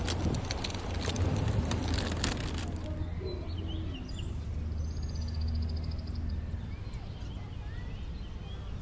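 Small birds chirping, with one quick high trill, over a low steady hum. A louder rough noise with clicks stops about a third of the way in.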